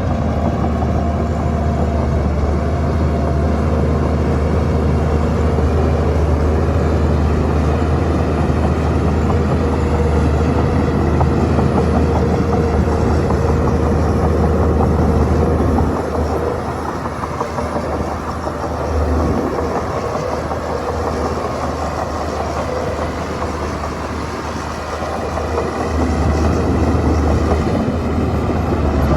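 Shantui bulldozer's diesel engine running steadily and loud under load, easing off about halfway through and building up again near the end.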